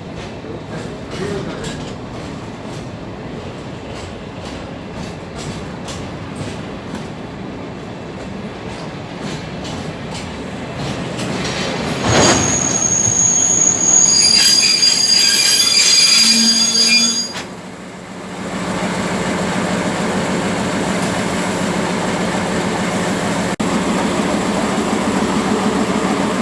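Train running on rails, with a loud high-pitched wheel squeal from about 12 seconds in that lasts around five seconds and stops suddenly. Then a steady rumble with a low hum.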